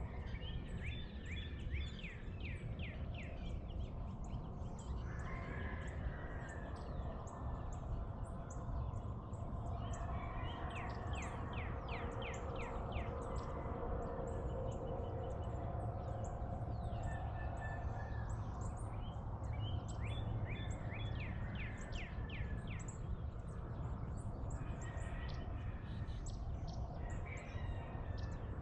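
Northern cardinal singing in phrases of quick down-slurred whistled notes, a new phrase about every ten seconds, over a steady low rumble of background noise.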